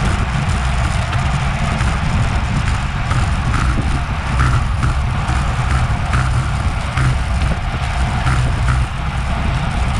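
Wind rushing over an action camera's microphone while cycling at speed: a steady low rumble with a hiss of air and road noise over it.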